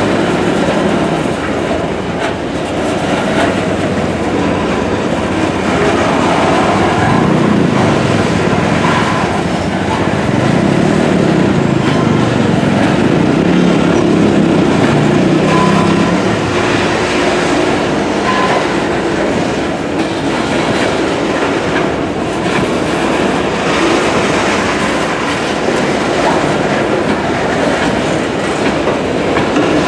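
Long, heavily loaded freight train rolling past, its steel wheels clattering steadily over the rail joints, with a few faint, brief wheel squeals.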